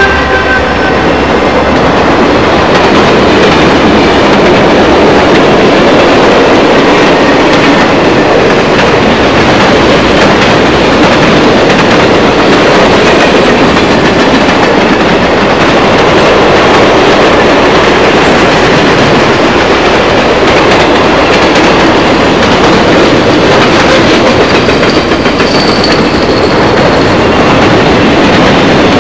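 A train passing close by, its cars and wheels running over the track in a loud, steady rush. The end of a horn blast fades out in the first second.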